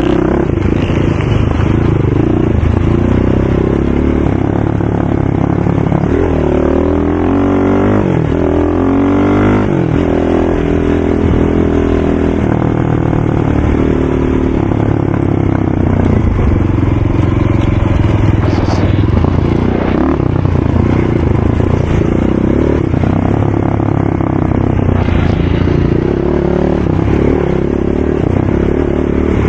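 ATV engine running hard, its pitch repeatedly rising and falling as it revs up and shifts.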